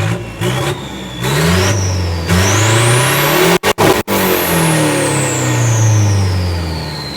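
Tuned car engine being free-revved: two short blips, then a long rev up and a slow fall back toward idle, with a high whine that climbs and falls with the revs.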